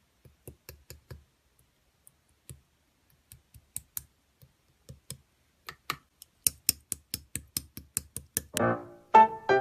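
Sharp clicks, scattered at first, then a quick even run of about five a second that grows louder. Near the end, piano-like keyboard music begins.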